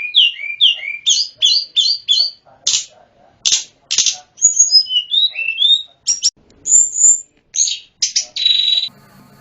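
Tledekan gunung (sulingan gunung) songbird singing: a fast, varied run of clear whistled notes that slide down and up, mixed with sharp chips. The song ends in a short buzzy note just before the end, leaving a faint hum.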